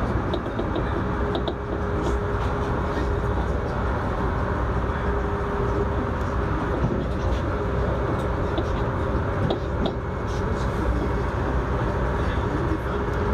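Running noise of an Alstom Régiolis regional electric multiple unit heard from inside the train: a steady deep rumble with a constant mid-pitched hum over it and a few faint ticks.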